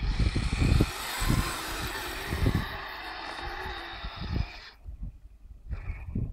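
Kyosho Blizzard radio-controlled tracked snow vehicle running, its electric motor and tracks giving a steady whirring noise that stops about four and a half seconds in. Irregular low thumps from handling or wind on the phone microphone.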